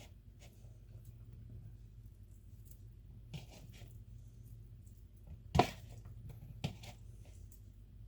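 Cooked chicken breast being pulled apart by hand in a bowl: faint soft tearing and small clicks, with a sharp knock a little over halfway through and a lighter one about a second later.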